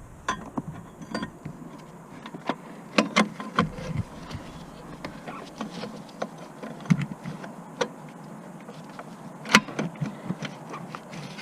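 Scattered, irregular clicks and knocks over a steady background noise.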